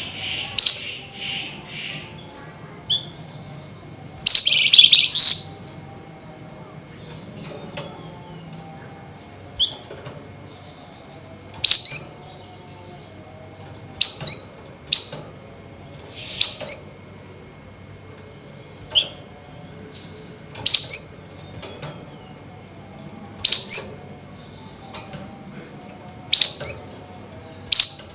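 Flamboyan songbird giving loud, sharp call bursts, each a very short chip sweeping down in pitch. They repeat about a dozen times, every one to three seconds, with a longer chattering burst about four seconds in.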